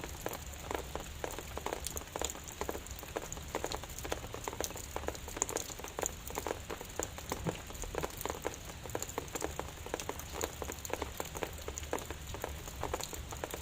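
Drizzle: light rain with many separate drops striking a surface, steady throughout, over a low steady hum.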